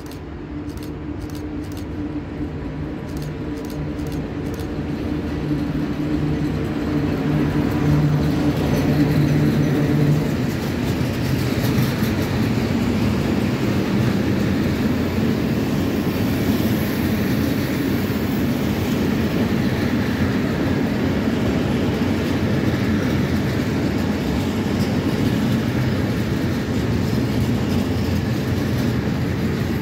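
A freight train passing: the locomotive draws near with a steady low hum that grows louder and passes about ten seconds in. A long string of empty flat wagons then rolls by with steady wheel and rail noise.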